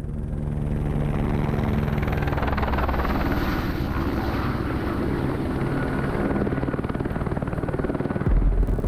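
A steady mechanical engine drone with a low hum over rushing noise. It grows louder in the first second and swells deeply near the end.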